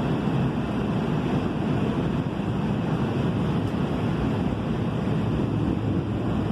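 A Kinkisharyo P3010 light rail car in motion, giving a steady low rumble of wheels running on rail.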